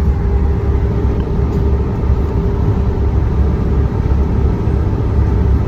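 Truck driving, heard from inside the cab: a steady, low engine and road rumble with a faint constant hum, no changes.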